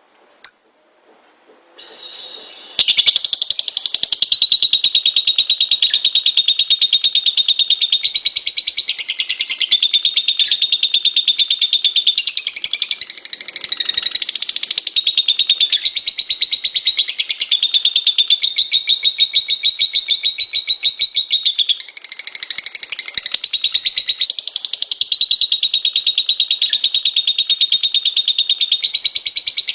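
Lovebird chattering in one long, unbroken run of rapid, shrill notes that starts about three seconds in, after a near-silent gap broken by a single click.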